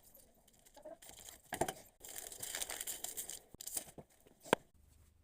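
Rustling and crinkling of material being handled, with a few sharp clicks; the sharpest click comes about four and a half seconds in.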